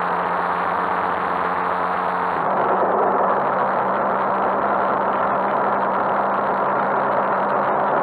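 Motorcycle engine running steadily, heard from the handlebars. About two and a half seconds in, its note changes and it grows a little louder.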